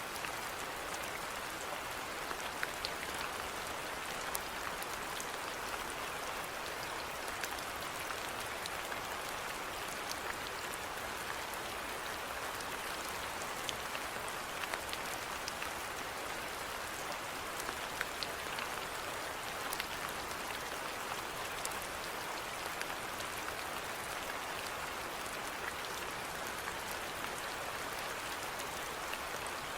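Steady rainfall with scattered individual drops ticking on a surface.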